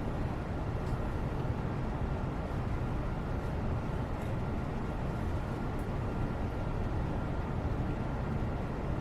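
Steady low rumbling background noise, even throughout, with a faint steady tone above it and a few faint light ticks.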